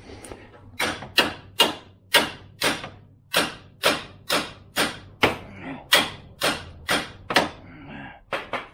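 Hammer blows struck on the front suspension of a Jeep Compass to pop a part loose during a CV axle change: about sixteen sharp strikes, roughly two a second, with a short break about a second before the end.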